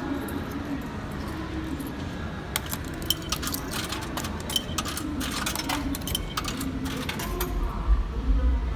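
Coins clinking and dropping in a railway ticket vending machine during a fare purchase, a quick run of sharp metallic clicks and chinks. A low rumble comes up near the end.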